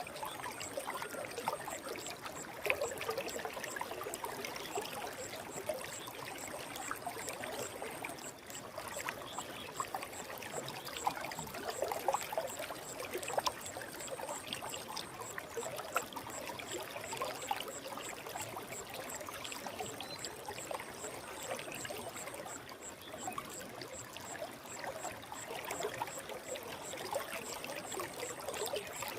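Forest stream flowing steadily, its water babbling and trickling at an even level.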